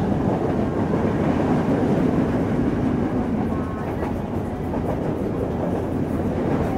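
Passenger train running along the track, heard from outside the carriage window: a steady noise of wheels on rails and the rushing air of the moving train.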